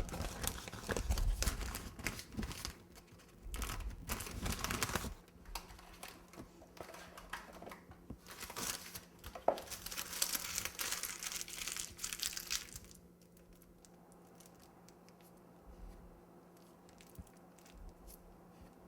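Piping bag crinkling and rustling as it is handled and fitted with a leaf tip for buttercream, in irregular bursts that stop about two-thirds of the way through.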